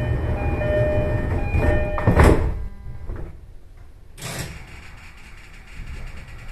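Cab sounds of a stationary electric commuter train: a low rumble with several steady whining tones for about the first two seconds, ending in a sharp clunk. A short burst of hiss follows about four seconds in.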